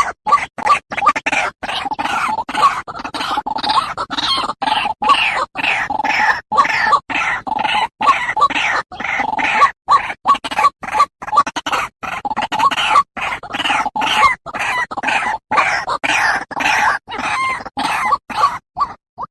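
White-breasted waterhen calls: a loud, unbroken run of short repeated calls, several a second, played as a lure recording.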